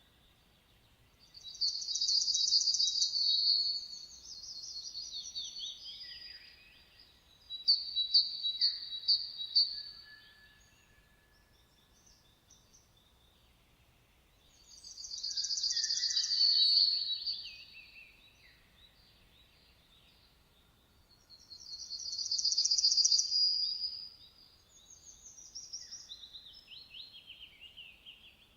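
Songbirds singing: four loud song phrases of two to three seconds each, several seconds apart, with softer falling notes and quick runs of short notes in between, over faint background noise.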